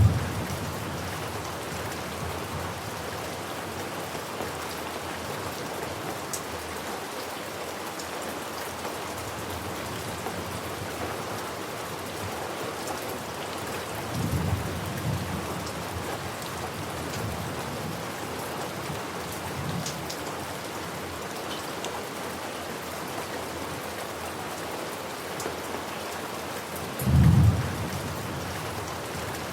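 Steady rain pattering, with short low thunder rumbles: one at the very start, a softer one about halfway through and the loudest near the end.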